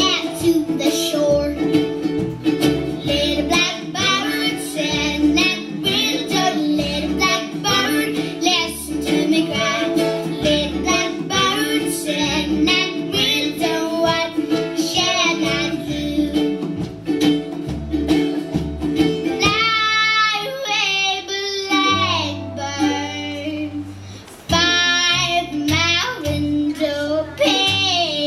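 A young girl singing a country-style song with plucked string accompaniment and a pulsing bass line.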